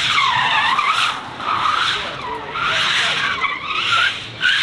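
Car tyres squealing in long wavering screeches that come in several surges with short breaks between them, with the car's engine running faintly underneath.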